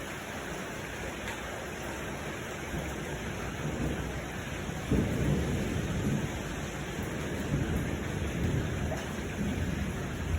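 Steady rain with a low roll of thunder that swells about halfway through and rumbles on irregularly.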